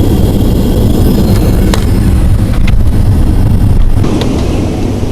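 Steady low rumble of a passenger jet's cabin noise in flight, with two brief clicks partway through.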